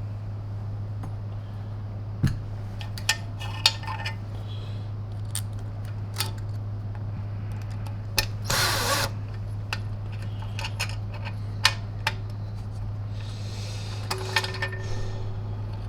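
Power screwdriver driving small screws into a plastic vacuum housing in short runs, one about halfway through and one near the end. Sharp clicks and taps of screws and parts come between the runs, over a steady low hum.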